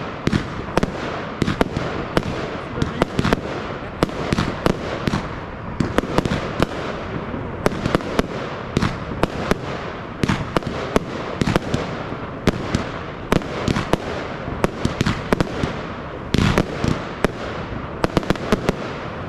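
Aerial fireworks going off in a continuous barrage: many sharp shell bursts over a steady rush of crackling. A quick string of close bangs comes near the end.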